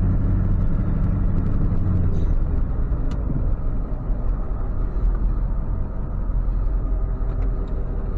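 Ford F-550 tow truck under way: a steady engine rumble with road noise, which eases off about two seconds in.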